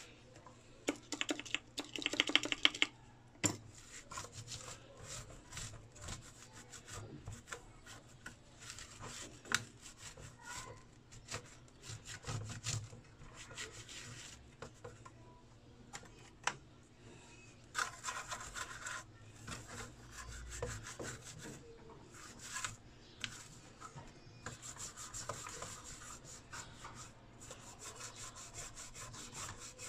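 Rapid back-and-forth scrubbing strokes on a soot-blackened inverter circuit board as it is cleaned, coming in flurries, with a louder burst near the start.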